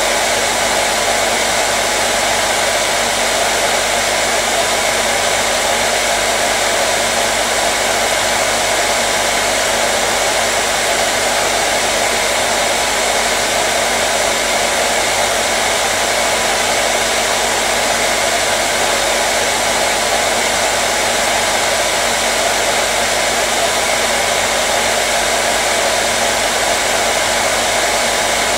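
Hair dryer running steadily: a constant rush of blown air over a steady motor hum, with no change in speed.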